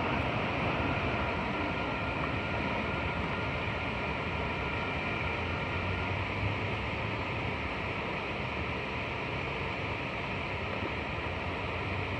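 Freight train of autorack cars rolling away down the track, its steady rumble slowly fading.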